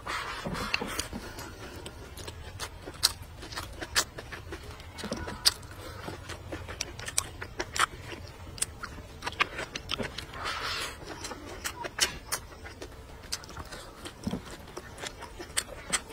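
Close-up wet chewing and lip-smacking of a person eating braised pig's trotter with rice, with irregular mouth clicks several times a second and a couple of short breathy sounds near the start and about ten seconds in.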